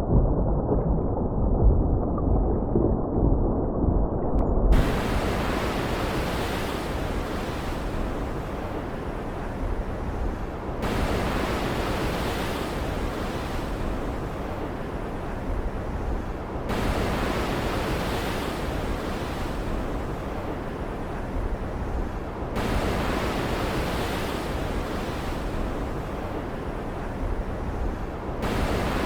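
Storm ambience of rain and ocean waves as a steady hiss. For the first few seconds it is muffled, with a low thunder rumble, and it opens up to the full bright hiss about five seconds in. After that it swells slightly about every six seconds.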